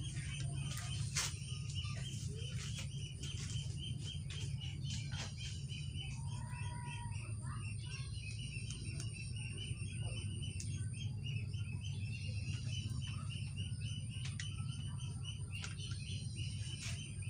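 Birds chirping rapidly and steadily, several short chirps a second, with a brief louder call about seven seconds in, over a low steady hum and a few small clicks.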